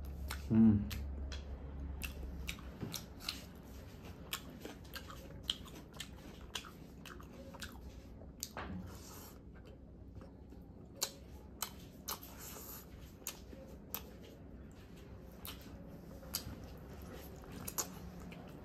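Close-miked chewing of spicy chilli chicken and fried rice eaten by hand: wet mouth clicks, smacks and crunches scattered throughout, with a brief hum from the eater about half a second in.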